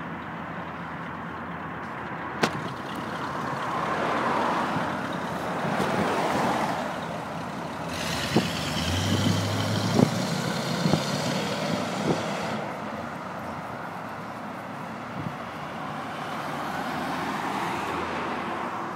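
Cars driving past, their engine and tyre noise swelling and fading several times, loudest and hissiest for a few seconds in the middle, with a few sharp knocks.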